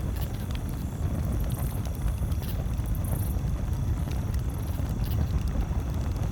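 Campfire burning, scattered sharp crackles and pops over a steady low rumble.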